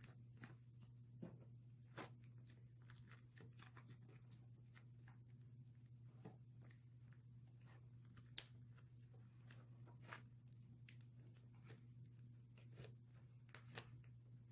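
White slime being stretched and pressed over a foam squishy, giving faint, irregular clicks and pops.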